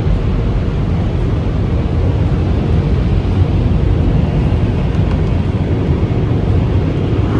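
Automatic car wash machinery heard from inside the car: a loud, steady rushing rumble that does not let up.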